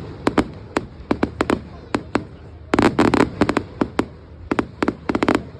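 Fireworks going off: a string of sharp pops and crackles at irregular spacing, thickening into rapid crackling bursts about halfway through and again near the end.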